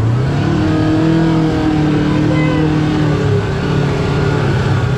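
Kawasaki Teryx KRX4 1000 side-by-side's parallel-twin engine pulling under throttle: its pitch rises over the first second, then holds steady, dipping slightly about three seconds in.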